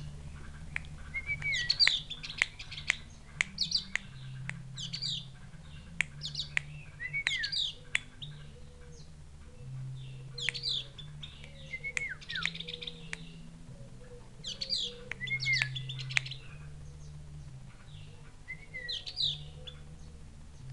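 Javan grey-throated white-eye (opior jawa) calling: repeated short bouts of sharp, high chirps, each with a short downward-sliding note, every two to three seconds.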